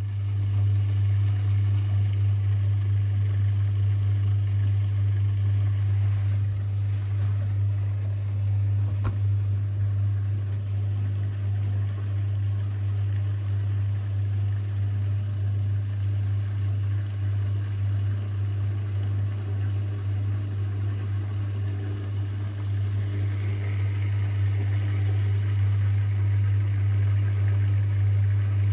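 Zanker EFX 4875 front-loading washing machine in its final spin, the drum turning at speed with a steady low hum.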